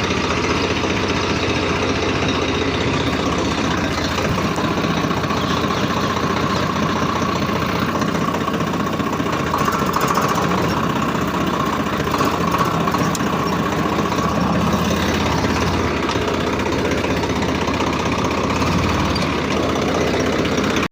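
Swaraj 855 tractor's three-cylinder diesel engine running steadily, its note a little stronger through the middle of the stretch.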